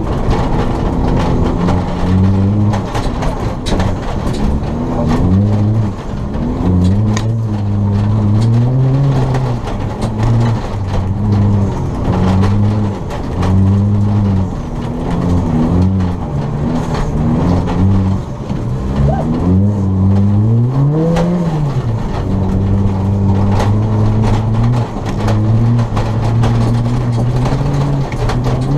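Ford Fiesta ST rally car's engine heard from inside the cabin, revving up and falling back again and again as it is driven hard around a snowy rallycross course. Frequent short knocks and rattles sound over the engine.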